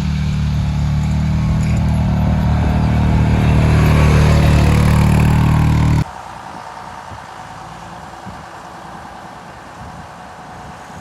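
A motor vehicle engine running loud and steady, swelling a little, then cutting off abruptly about six seconds in, leaving a quieter steady rumble.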